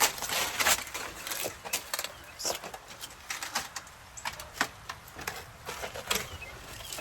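Footsteps scuffing and crunching on rock and loose stones, an irregular run of short clicks and scrapes.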